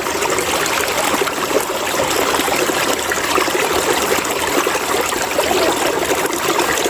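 River water flowing and splashing steadily over rocks.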